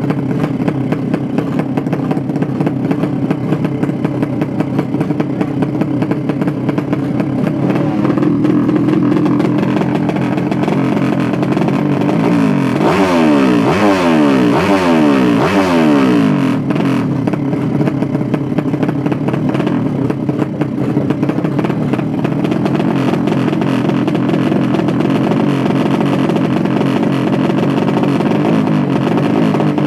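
Motorcycle engines running loudly and steadily. About halfway through comes a cluster of falling pitch sweeps, like bikes speeding past.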